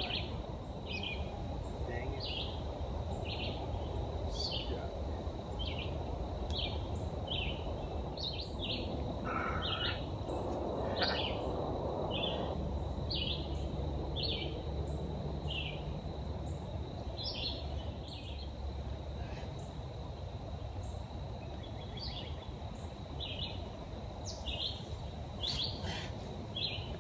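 A bird calling with short, high chirps over and over, a little more than one a second, over a steady low background hiss of the woods.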